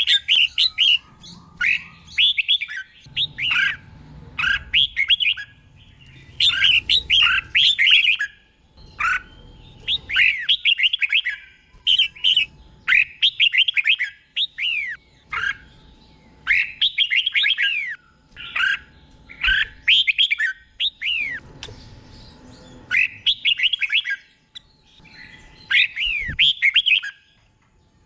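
Red-whiskered bulbul singing: short, bright warbling phrases with quick up-and-down glides, repeated about once a second with brief pauses, the phrases often doubled in pairs.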